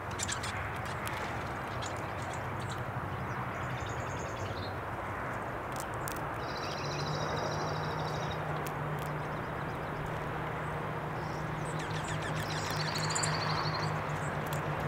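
Small birds giving short, fast-pulsed high calls three times, over a steady outdoor hiss and low hum, with a few sharp clicks.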